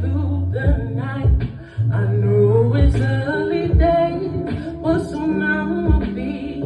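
Live vocal music: voices singing a melody over sustained low bass notes and a deep, regular kick-like beat.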